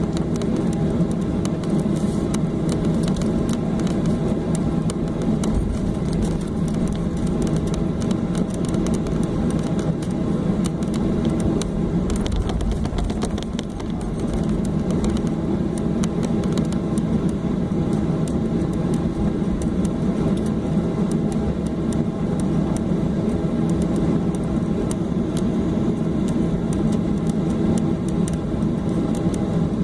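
Steady cabin noise inside a Boeing 737-800 taxiing after landing: the hum of its engines at idle and the air-conditioning, with a brief slight dip about halfway through.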